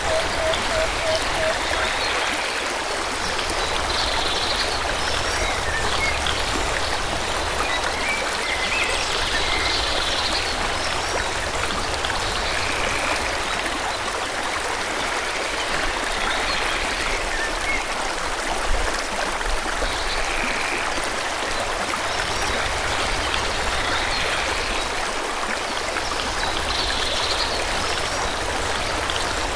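Forest stream flowing steadily, with short bird chirps every few seconds. A brief low pulsing trill sounds in the first two seconds.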